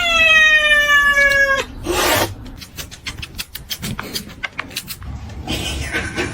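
A domestic cat's long, drawn-out yowling meow, slowly falling in pitch and breaking off about a second and a half in. A short burst of noise and a run of clicks and knocks follow.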